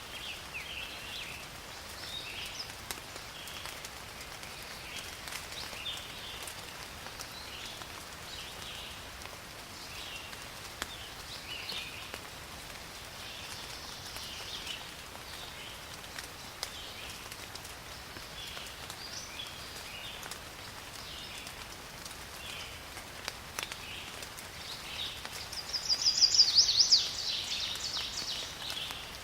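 Forest rain ambience: steady rain patter under frequent short, high chirping calls of forest animals. Near the end a much louder shrill, rapidly pulsing call lasts about a second.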